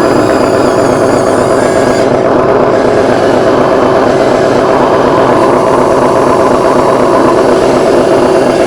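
Motors and hydraulic pump of RC construction machines running steadily under load, with a faint wavering high whine over the first two seconds.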